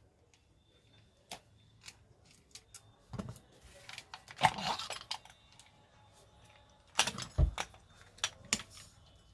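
Hand tools and small metal parts of an angle grinder clicking and clattering while it is worked on by hand: scattered sharp clicks, with louder bursts of clatter about three to five seconds in and again about seven seconds in.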